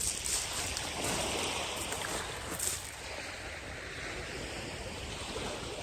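Sea surf washing on the beach, a steady hiss with a couple of brief surges, with wind on the microphone.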